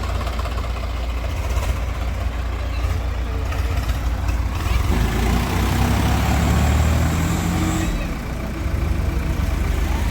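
Heavy diesel machine engine running, working harder with a stronger, deeper drone for about three seconds in the middle before easing back.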